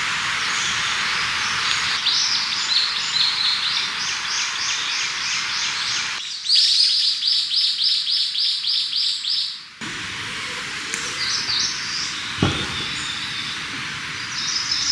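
Small birds singing: series of quick, evenly repeated high notes, with one run of about four notes a second in the middle. Scattered chirps follow over a steady background hiss, and a single short knock comes near the end.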